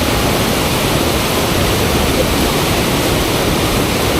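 Fast river water rushing steadily through a standing surf wave, a loud even rush with no let-up.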